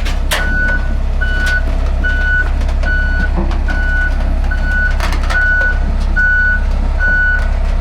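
Backup alarm beeping steadily, a single tone a bit more than once a second, over a low diesel engine rumble, with a few metallic clanks.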